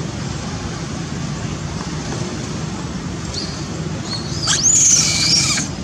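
Baby monkey crying: a faint high squeak, then a shrill, high-pitched cry about four and a half seconds in that rises sharply and wavers for over a second before cutting off. A steady low rumble sits underneath.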